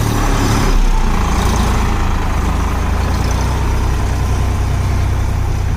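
Solis 5015 tractor's diesel engine running steadily.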